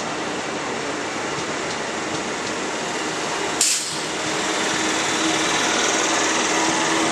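A train running past with a steady rushing noise and a single sharp knock about halfway through. After the knock the sound grows louder and a steady hum comes in.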